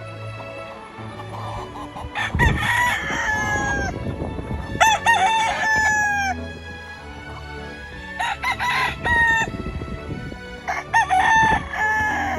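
Gamefowl roosters crowing, four crows one after another, each lasting about a second and a half.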